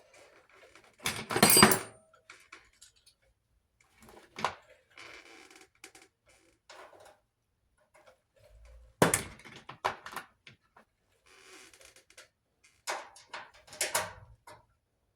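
Scattered clunks and clatter of sheet-metal dryer parts being handled, in separate bursts with quiet gaps between. The loudest bursts come about one and a half seconds in and about nine seconds in.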